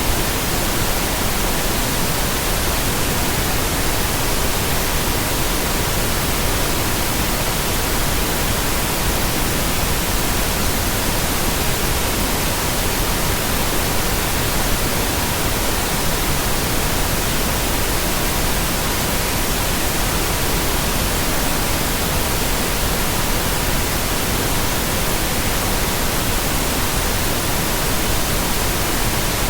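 Steady, unchanging pink noise with a faint continuous tone at about 963 Hz mixed in.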